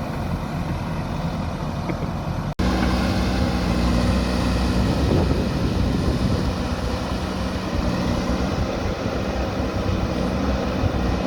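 JCB backhoe loader's diesel engine running steadily. It cuts out for an instant about two and a half seconds in, then comes back louder.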